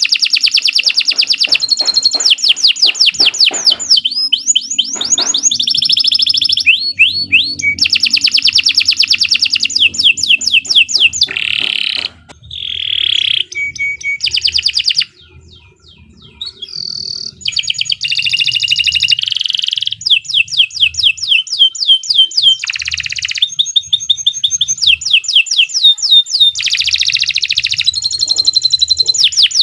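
Domestic canary singing a long, energetic song of fast trills and rapidly repeated notes, with a brief pause about halfway through before it resumes.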